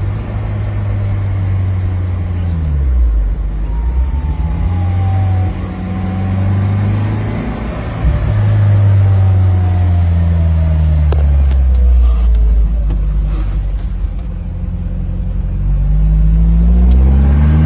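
Jaguar XJS's V12 engine running, its revs rising and falling several times.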